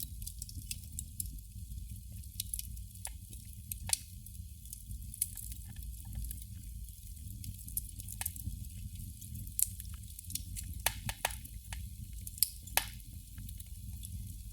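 Candle flame crackling: irregular sharp ticks and pops from the burning wick, with a quick run of pops about eleven seconds in, over a steady low hum.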